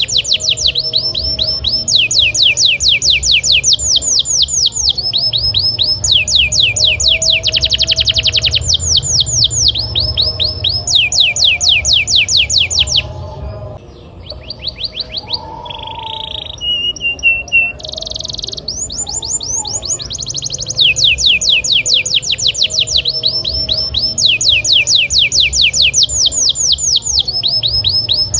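Domestic canary singing hard: long rolling trills of rapid, evenly repeated notes, switching to a new trill every second or two, with a short stretch of scattered separate chirps about halfway through. A steady low hum runs underneath.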